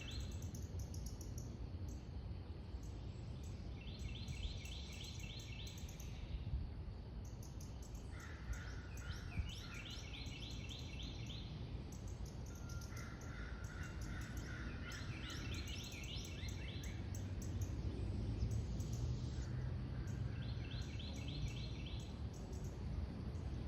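Songbirds singing short rapid trills every few seconds, a higher-pitched phrase alternating with a lower one, over a steady low background rumble.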